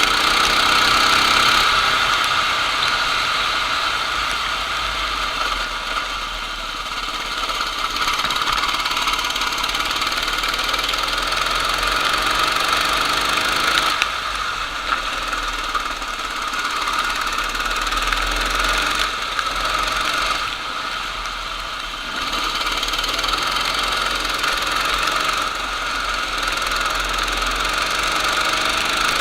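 Racing kart engine running hard on track, a steady buzzing note whose loudness dips and comes back several times as the kart slows for corners and accelerates again.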